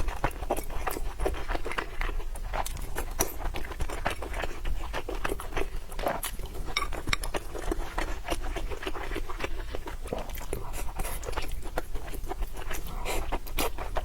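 Close-miked chewing and wet mouth sounds of a person eating: a dense, irregular run of small smacks and clicks.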